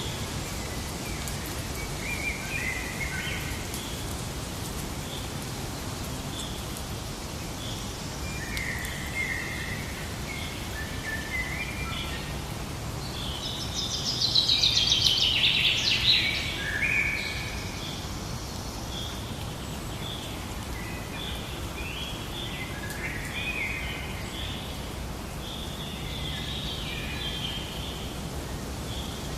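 Forest ambience: several birds calling and chirping over a steady low background hiss, with a loud, rapid run of song or chatter lasting about two seconds around the middle.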